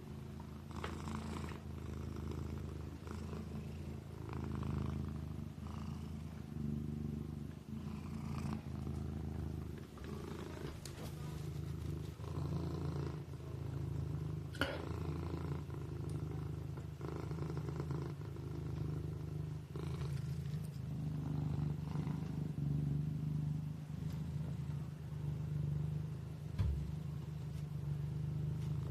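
Kitten purring steadily, the purr rising and falling about every two seconds. A single sharp click about halfway through.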